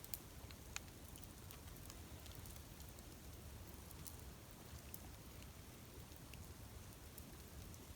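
Faint crackling of a dry-pine campfire: a low steady hiss with a few small, sparse pops.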